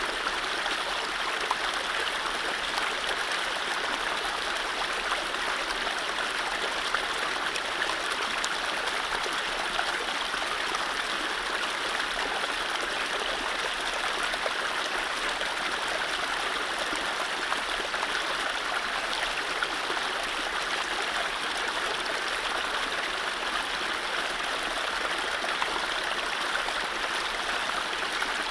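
Mountain stream running over low rapids: a steady rushing and splashing of water that stays even throughout.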